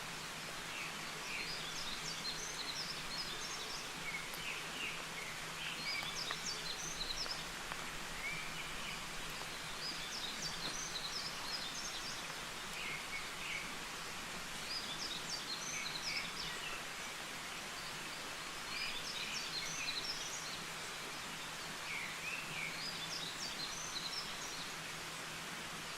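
A bird singing short, chirpy phrases that repeat every three to four seconds, over a steady rush of flowing water.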